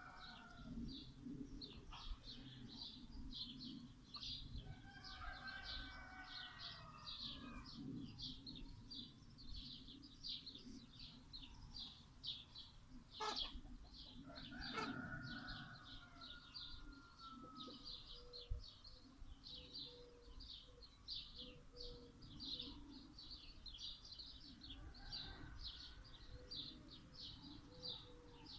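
Faint outdoor birdsong: a rapid, continuous high chirping, with a few longer gliding calls and a low, evenly repeated series of notes in the second half.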